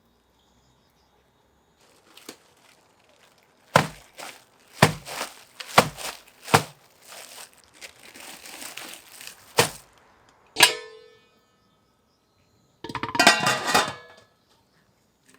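A series of sharp knocks and clacks of hard objects being handled, then a single ringing metallic clink, and a short rattling clatter near the end.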